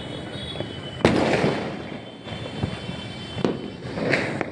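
Fireworks going off: one loud bang about a second in that dies away slowly, then a few smaller cracks near the end.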